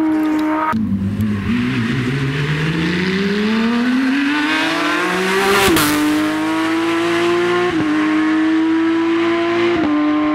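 Porsche 911 flat-six rally car at full throttle: the engine note drops about a second in, then rises steadily for about four seconds. Near the middle it changes gear with a sharp snap and holds high revs, with quick gear changes near 8 and 10 seconds.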